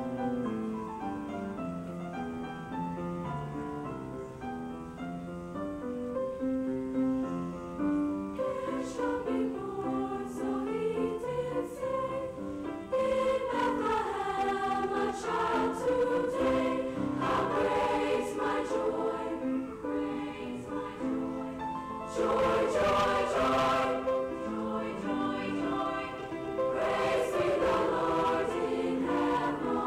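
Junior high school choir singing in parts, with long held notes. The singing grows louder about halfway through and again near the end.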